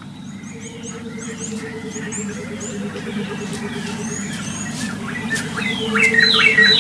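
Small birds chirping: many short, high chirps, then a louder run of quick downward-falling calls near the end, over a low steady hum.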